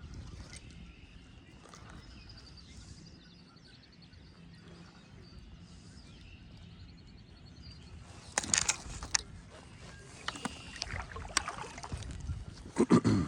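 Wind rumbling on the microphone, with a bird trilling faintly a few seconds in. From about eight seconds, sharp knocks and clatter of gear against a kayak hull, ending in a heavy thump.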